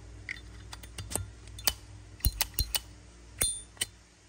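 A Zippo lighter being handled, giving a string of sharp metallic clicks and clinks with uneven spacing. One clink about three and a half seconds in rings briefly.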